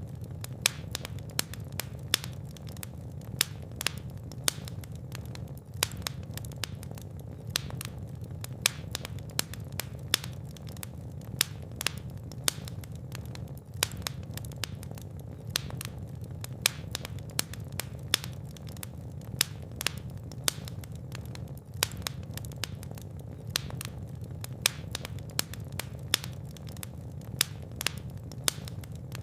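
Fireplace fire crackling, with frequent sharp, irregular pops over a steady low rumble of the flames.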